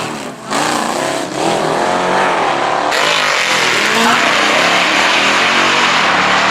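Drag-racing engine revving up and down, then running hard at high revs with loud, dense engine noise.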